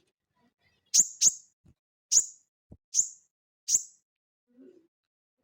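A sogon, a cage songbird, gives short sharp high chips, five in all. The first two come close together about a second in, and the rest follow at slower intervals of under a second.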